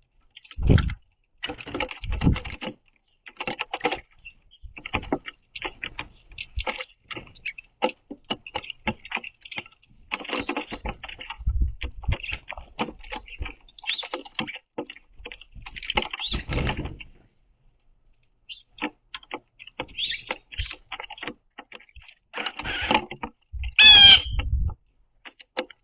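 House sparrows busy at a wooden platform feeder: a steady patter of pecking, scratching and wing flutters, with several thumps as birds land. Near the end one bird gives a single loud call, the loudest sound here.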